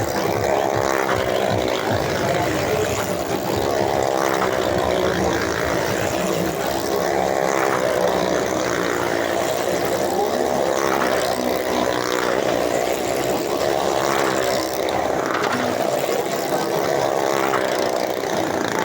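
Motorcycle engine running steadily while riding, a continuous droning hum at an even pitch.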